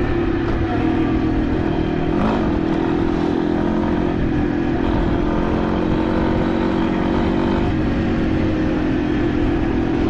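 Motorcycle engine running steadily under way, with a brief dip and rise in pitch about two seconds in.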